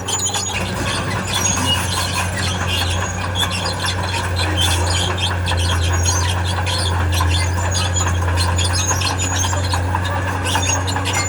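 A tracked earthmoving machine working: its diesel engine runs with a steady low hum, under a dense, irregular chatter of high squeaks and clinks from its steel tracks.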